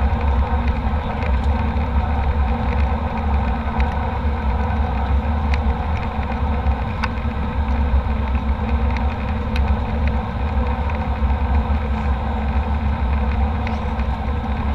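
Steady in-flight cabin noise of a jet airliner: a constant low engine and airflow rumble, with a few faint clicks.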